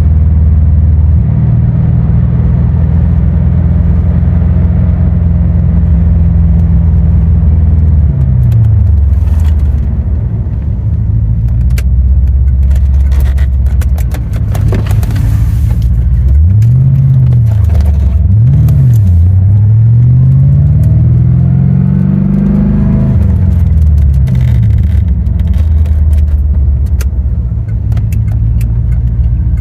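1990 Chevrolet Corvette C4's V8 engine pulling the car on the road. It runs steadily, drops in revs about eight seconds in, then revs up and down twice in quick succession near the middle, climbs longer and falls away again, and settles back to a steady note.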